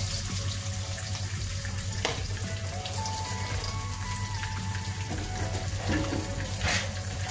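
Coconut slices frying in hot coconut oil in a wok: a steady sizzle.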